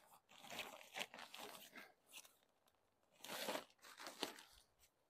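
Waterproof tent fly sheet fabric rustling and crinkling as it is handled and pulled over the tent, in irregular bursts.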